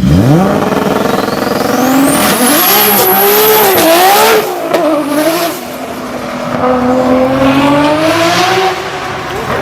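Turbocharged car engine accelerating hard, its turbo whistle climbing to a high pitch, then lifting off about four seconds in with a turbo flutter. It pulls again and lifts off once more near the end.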